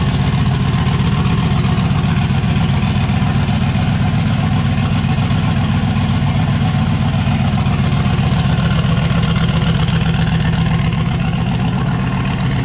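Turbocharged LS V8 in a Chevrolet S10 pickup idling steadily.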